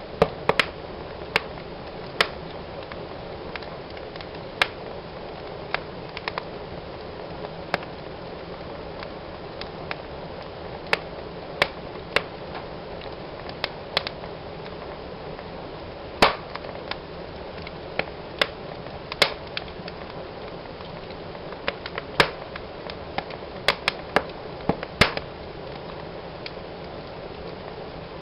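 Fire crackling in a fireplace: a steady soft hiss with irregular sharp pops, one every second or two, bunching into quick runs in places.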